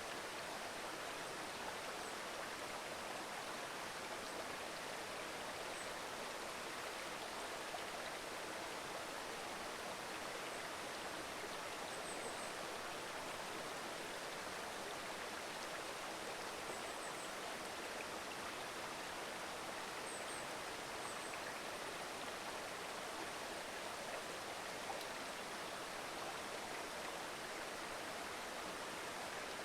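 Mountain stream babbling steadily over rocks. A few faint, short, high chirps come now and then in twos and threes.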